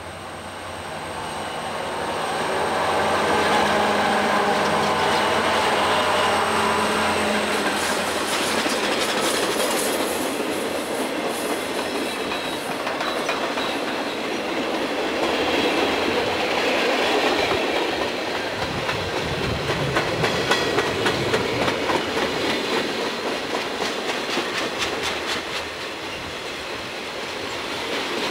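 Diesel freight locomotives pass close by with their engines running. A string of freight cars, among them coal hoppers and a tank car, follows, rolling past with a steady clickety-clack of wheels over the rail joints.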